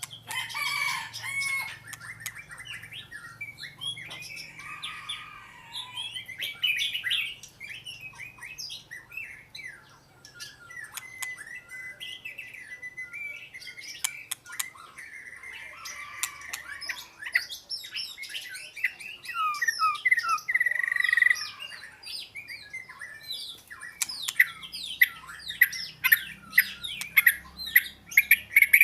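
Oriental magpie-robin singing a varied song of whistles and chirps, getting faster and louder in the last few seconds.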